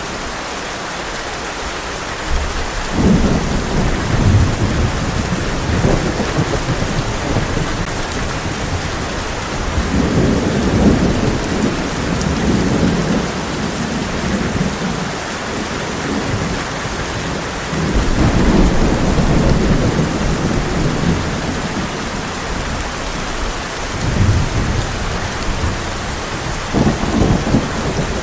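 Heavy rain falling steadily on a tin roof, with rolling thunder rumbling in about five times.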